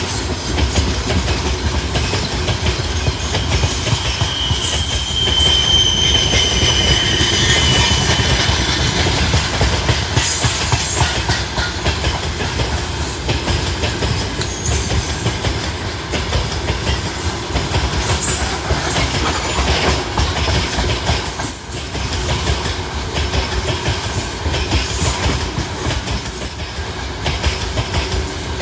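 A long freight train of loaded coal gondola cars rolling past, its wheels rumbling and clattering over the rail joints. A wheel squeals for a few seconds near the start.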